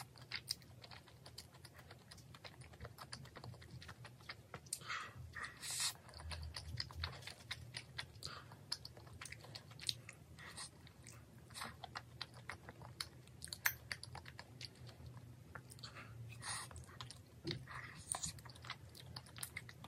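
Close-miked wet chewing of chewy rosé tteokbokki rice cakes, with many small mouth clicks and smacks and a few louder bites.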